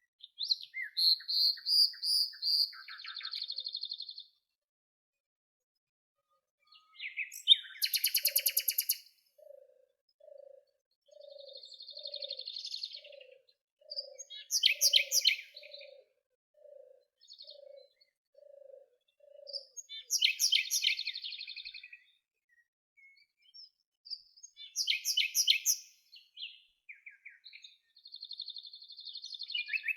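Songbirds singing in short, separate phrases of chirps, whistles and rapid trills, with gaps between them. In the middle there is also a run of about a dozen evenly spaced low notes, a little over one a second, lasting about ten seconds.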